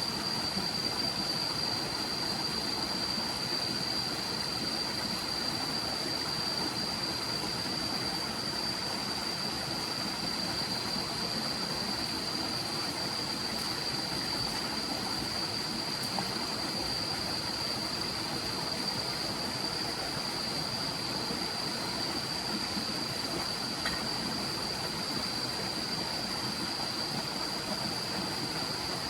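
Steady rush of a forest stream, with a continuous thin, high-pitched tone over it.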